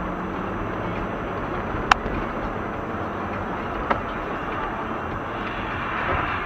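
A car driving, with a steady rush of road and engine noise. A sharp click comes about two seconds in, and a fainter one about two seconds after it.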